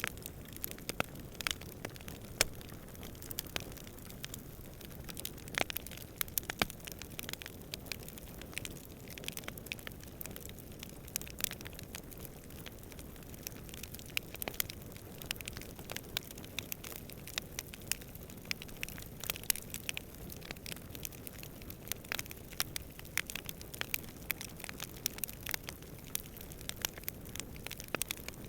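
Wood campfire crackling: irregular sharp pops and snaps of burning wood over a steady low rumble of the flames and distant wind.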